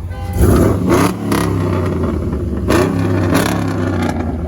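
A car engine with a loud exhaust revved hard twice, the pitch climbing with each surge, then settling back to a deep, steady idle rumble.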